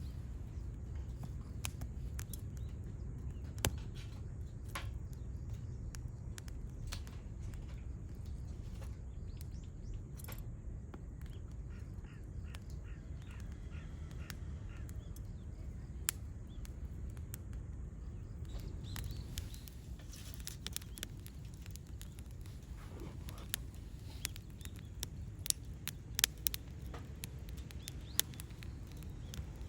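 Wood fire crackling in a small campfire stand: sharp, irregular pops and snaps over a steady low rumble. The pops come more often in the second half.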